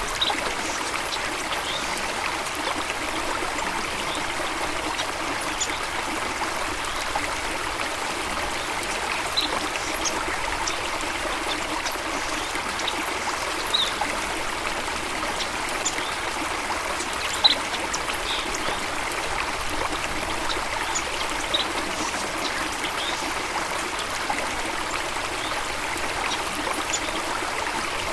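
Stream water running and trickling steadily. Short, sharp high-pitched sounds are scattered over it, the loudest a little past the middle.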